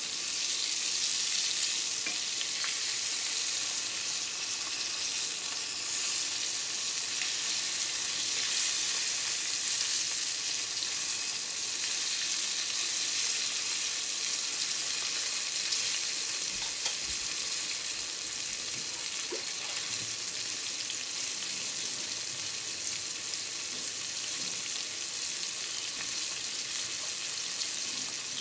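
Vegetable tempura, eggplant among it, frying in shallow oil in a small frying pan, making a steady hissing sizzle.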